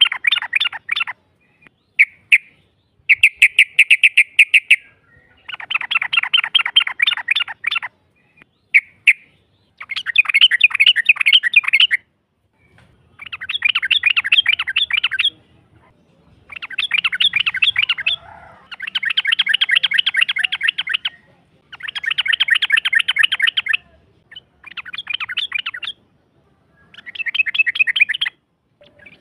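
Yellow-vented bulbul (trucukan) singing: a string of fast chattering phrases, each about two seconds of quickly repeated notes, broken by short pauses, with a couple of brief single chirps among them.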